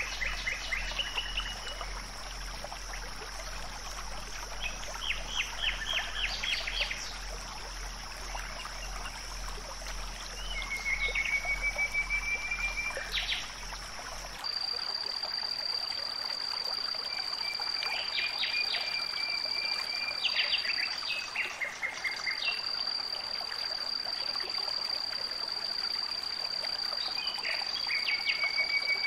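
Outdoor nature ambience: a steady high-pitched insect drone under repeated short bird chirps and trills. About halfway through, the drone shifts slightly lower and a low hum cuts out, as at an edit between recordings.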